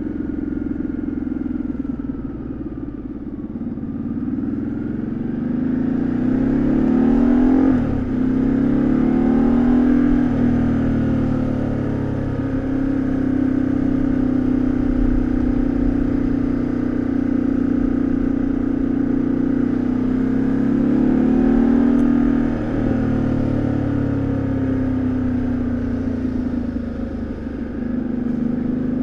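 2013 Ducati Multistrada 1200S's L-twin engine and exhaust heard from onboard while riding. The pitch climbs under acceleration and drops suddenly at gear changes about eight and twenty-two seconds in, with steady running between.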